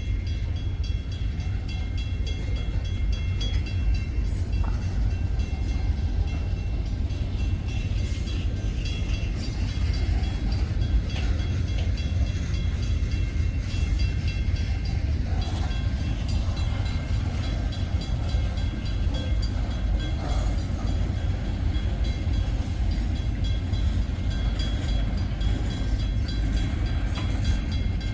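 Wheeling & Lake Erie freight train running, a steady low rumble with a few faint high steady tones and occasional light clicks.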